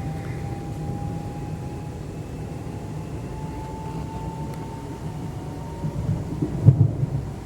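London Midland Class 350 electric multiple unit running: a steady low rumble of wheels on the rails, with the traction motor whine slowly rising in pitch as the train gathers speed. A few louder knocks come near the end.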